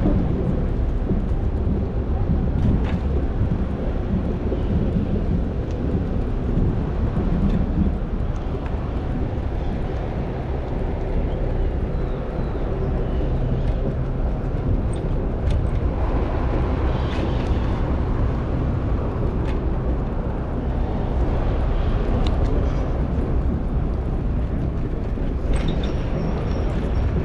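Steady low rumble of wind buffeting the microphone while riding a bicycle, with outdoor traffic and a few faint clicks.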